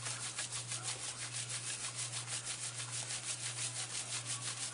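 Fast, even scrubbing of a small dog's coat, about five strokes a second, working dirt out of a spot on his fur, over a steady low hum.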